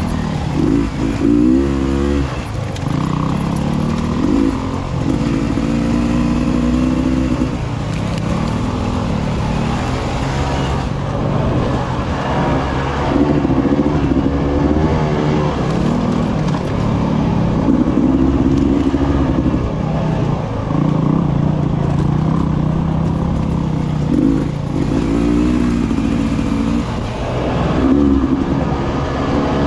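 Beta 300RR Race Edition's two-stroke engine under way, revving up and down repeatedly as the throttle is opened and rolled off.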